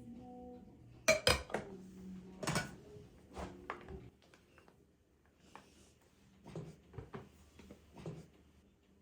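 Dishes and kitchenware being handled: a quick cluster of clinks and knocks in the first few seconds, then scattered single knocks as items are set down.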